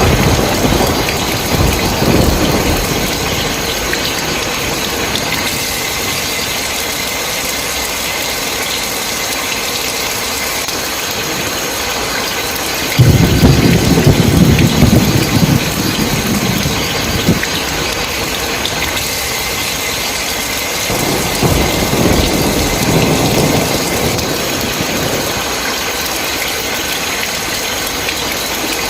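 Steady heavy rain with rolls of thunder. One rumble fades out early, a sudden loud clap and rumble comes about halfway through, and a softer roll follows a few seconds later.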